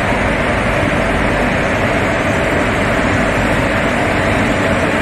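An electric locomotive-hauled passenger train rolling slowly, a steady rumble and rattle of wheels on the rails with no horn.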